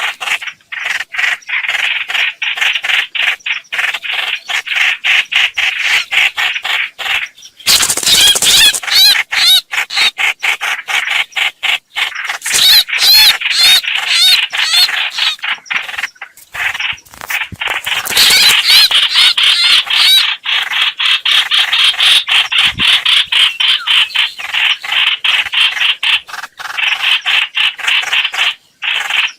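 Lure recording of the bird called chim hoạch hoạch in Vietnamese, giving rapid, rasping call notes many times a second. The calls get louder and busier in stretches about 8, 13 and 18 seconds in.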